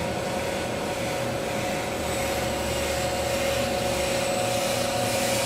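Jones & Shipman Suprema 650E CNC cylindrical grinder running with its grinding wheels spinning: a steady whirring hum with a constant whine. A low hum underneath drops out about four seconds in.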